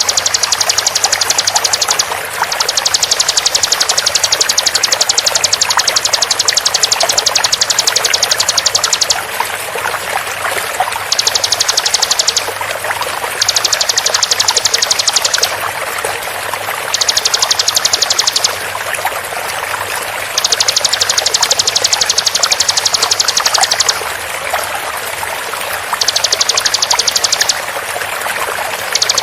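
Bar-winged prinia (ciblek) giving its 'tembakan' song: a very fast, machine-gun-like trill of high notes in repeated bursts of a few seconds, with short pauses between them. Under it runs a steady sound of flowing water.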